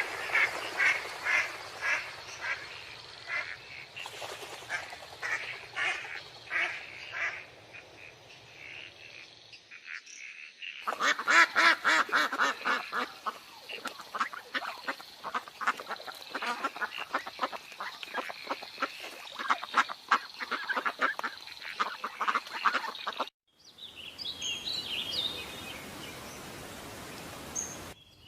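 Ducks quacking in short repeated calls, about two a second at first. From about eleven seconds in the calls come thick and fast, several birds together, until they cut off suddenly about 23 seconds in.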